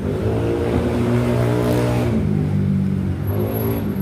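A motor vehicle engine revving in street traffic: its pitch rises, drops about two seconds in, then climbs again near the end.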